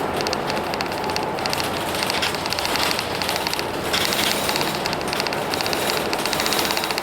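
Hino Blue Ribbon City bus with its P11C diesel running: a steady rumble and hiss with a rapid, continuous rattling and clicking over it.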